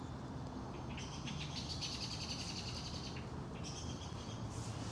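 Bird chattering in a fast, high-pitched trill, in two bursts with a short break a little after three seconds, over a faint steady background hum.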